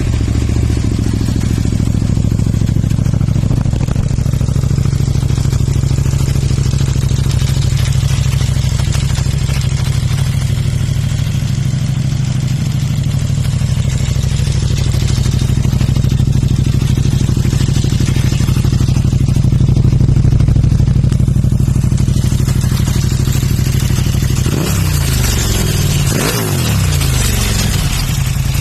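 KTM 790 Duke's parallel-twin engine running through a titanium full exhaust, idling steadily, then revved in a few quick throttle blips near the end.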